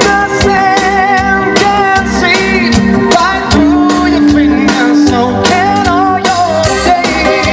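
Live band playing a pop song, with a steady drum beat under a wavering melody line.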